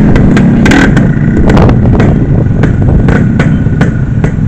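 A motor vehicle running, with a heavy low rumble and frequent sharp clattering knocks.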